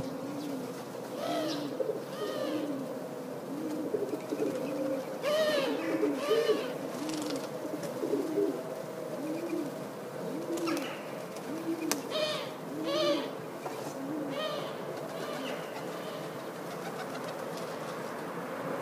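Birds calling: a low, arched note repeated about once a second, with higher chirping calls over it, fading out in the last few seconds.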